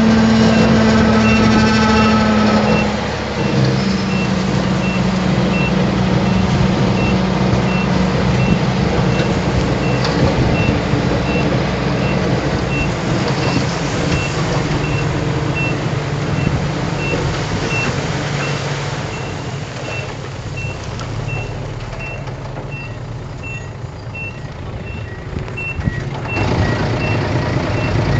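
A heavy machine's reversing alarm beeps at an even rhythm of roughly two beeps a second, over the loud continuous running of its engine.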